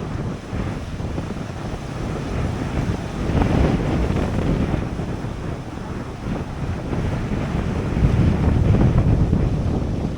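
Wind buffeting the microphone over ocean surf, a loud rushing noise that swells and eases as the waves break.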